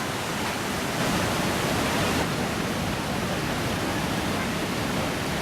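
Steady roar of Iguazu Falls, water pouring over the cliff: an even rushing noise that swells slightly for about a second, shortly after the start.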